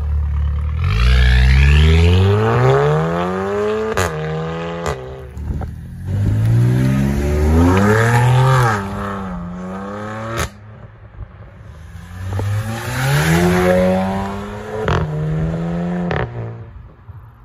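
Performance cars accelerating hard away one after another: three runs of engine pitch climbing through the gears, each gear change a sudden drop, with sharp cracks at several of the shifts.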